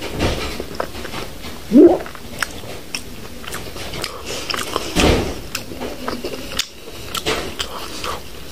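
A person chewing a mouthful of rice and curry with wet, clicking mouth noises. Two short loud sounds rising in pitch come from the mouth about two seconds in and again about five seconds in.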